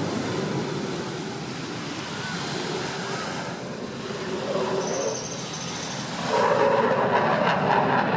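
Jet aircraft engine noise, a steady roar with a thin high whine partway through, growing louder about six seconds in.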